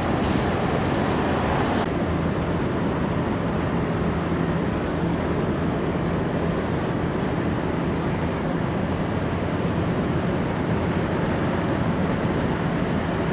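Steady low rumble of jet aircraft engines, with a steady hum coming in about two seconds in.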